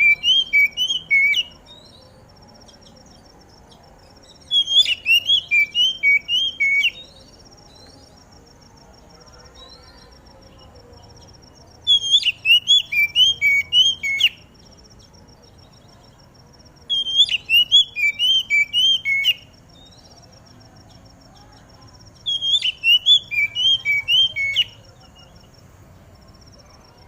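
Oriental magpie-robin (kacer) singing: a phrase of quick whistled notes, each phrase about two seconds long, repeated five times with pauses of three to five seconds between. A faint steady high-pitched chirring runs beneath.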